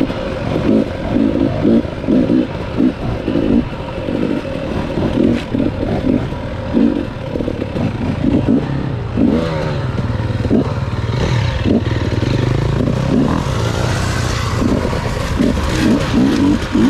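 Dirt bike engine revving in short repeated throttle blips, then running at a steadier note that slowly shifts in pitch from about halfway through.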